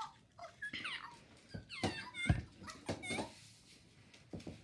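Fingerlings electronic toy baby monkeys chirping and babbling in several short squeaky calls that slide up and down in pitch, with a knock from handling a little over two seconds in.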